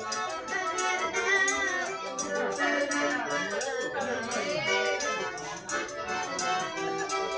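Accordion music with a quick, steady shaker-like percussion beat.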